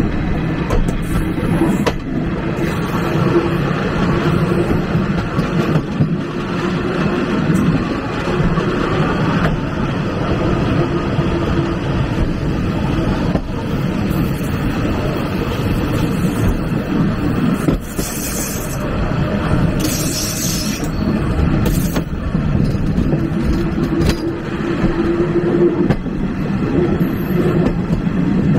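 Railway carriage of a steam-hauled passenger train rolling along the track: a steady rumble of wheels on rails with occasional clicks.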